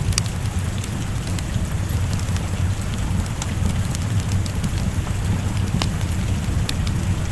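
Steady rain with a deep low rumble underneath, and a handful of sharp crackles from a wood fire scattered through it.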